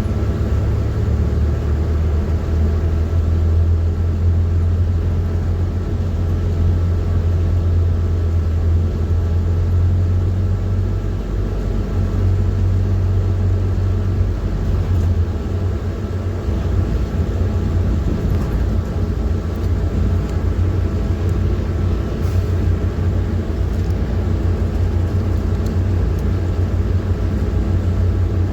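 PAZ-4234-05 bus's diesel engine running under way, heard from inside the bus as a steady low drone with road noise; the engine note changes about ten seconds in.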